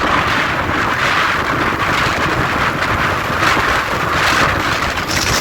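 Steady rushing wind noise on the microphone from riding along the road at speed.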